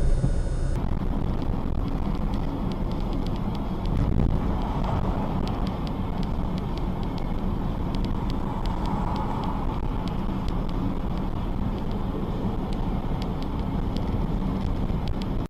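A moving vehicle's steady engine and road noise, even throughout, with no impact or voice standing out.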